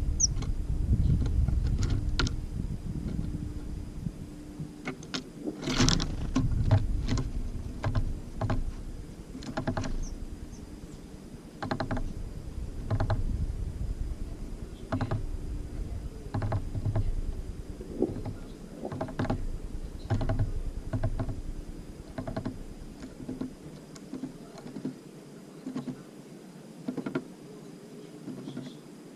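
Irregular sharp taps and clicks of small birds, tits, landing on and pecking at a bird feeder, over a low wind rumble that dies away near the end.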